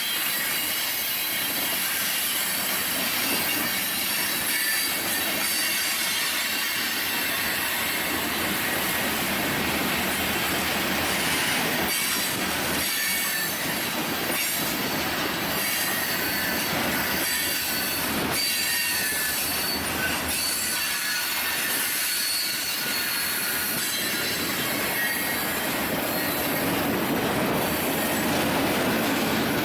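Union Pacific freight cars rolling steadily past, their wheels squealing in thin high tones, with occasional knocks from the wheels over the rail.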